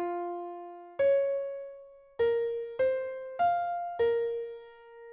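A short melody of six single notes played on a keyboard with an electric-piano tone. Each note is struck and then dies away, the last one held longer.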